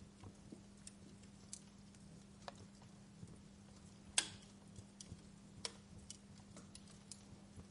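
Wood fire crackling: sparse, irregular pops and snaps, the loudest a sharp pop about four seconds in, over a soft hiss and a faint steady low hum.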